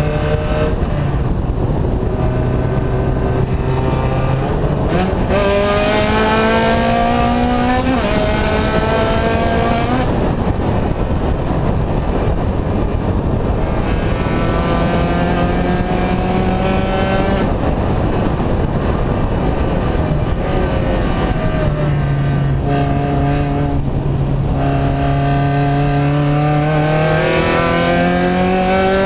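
Loud engine with an open, unsilenced exhaust, pulling up through the gears. Its pitch climbs and drops back at shifts about 8 and 10 seconds in, then holds steady. It eases down around the middle and climbs again near the end.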